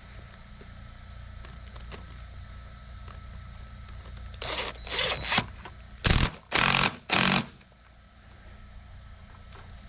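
Hand work on a water-line hose fitting and clamp: a few short scraping sounds about halfway through, then three loud, harsh scrapes in quick succession, over a steady low hum.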